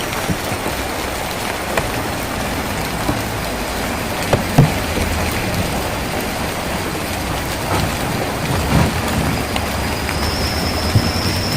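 Rain falling on a tin roof: a steady dense patter with a few heavier drops knocking now and then. A thin, steady high tone comes in near the end.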